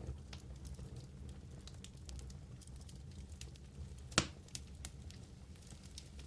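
Wood fire burning in a fireplace, crackling with scattered small pops and one loud sharp pop about four seconds in, over a steady low rumble.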